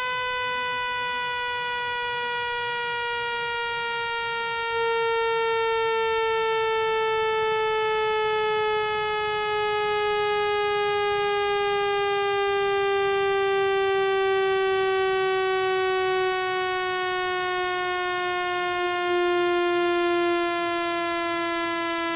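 Synthesized speaker-cleaning tone, buzzy and rich in overtones, held steadily while its pitch slides slowly downward. It is a tone meant to vibrate a phone speaker's diaphragm and push out water and dust.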